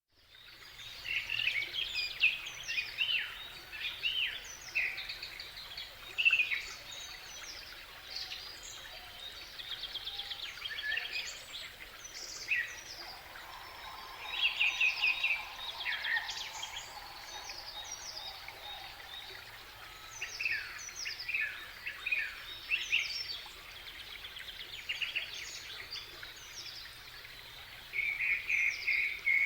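Countryside daytime ambience of many songbirds chirping and trilling at once, starting abruptly out of silence. A faint steady buzz runs underneath for several seconds midway.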